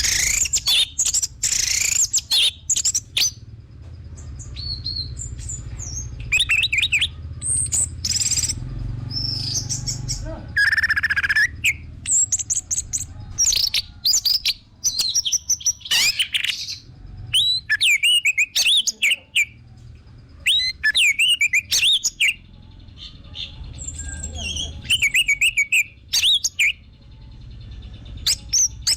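Orange-headed thrush singing a varied song of rapid, sweeping whistled notes and trills in short bursting phrases, with brief gaps between them, over a low steady hum.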